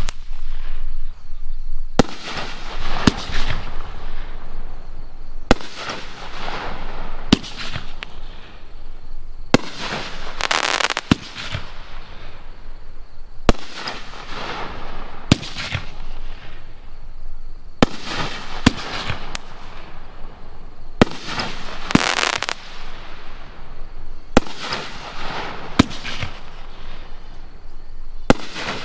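A 12-shot, 2-inch-bore 500-gram fireworks cake firing: a run of sharp launch thumps and loud shell breaks every one to two seconds, each break trailing off in a fading hiss.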